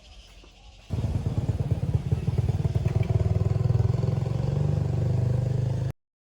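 Small motorcycle engine running with a fast, even putter, starting suddenly about a second in and cutting off abruptly near the end.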